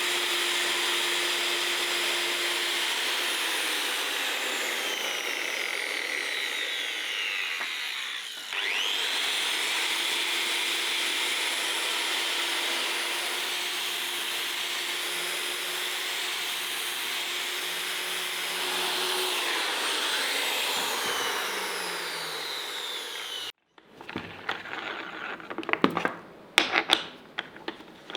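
Electric power tool running steadily, dipping and then picking back up about eight seconds in. It cuts off abruptly near the end and is followed by a run of sharp clicks and knocks.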